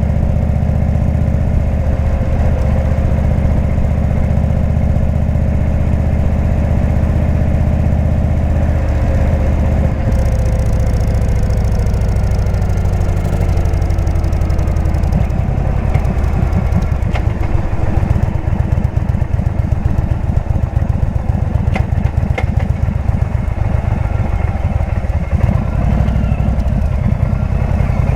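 Indian V-twin motorcycle engine with a Jekill & Hyde exhaust running under way. About ten seconds in its note drops as it slows, then it beats slowly and unevenly at low revs.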